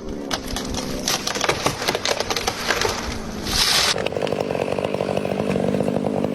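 Chainsaw running and cutting wood, with cracks and snaps mixed in; about four seconds in the sound changes abruptly to a steadier, evenly pulsing chainsaw engine.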